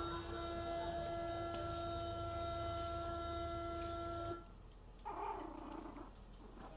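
A steady humming tone, played as a sound-desensitization noise, that cuts off about four seconds in. About a second later comes a brief vocalization from a small dog.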